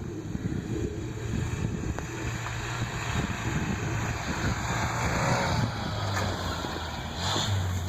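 Pickup truck engine running steadily as it tows a snow sled, a low hum under a rushing hiss that swells about halfway through.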